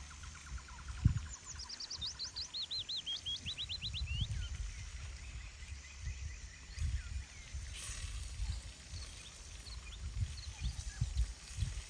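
A small songbird sings a fast trill of repeated notes that steps down in pitch, about one to four and a half seconds in. Under it runs a low, gusty rumble of wind on the microphone, with a single knock near the start.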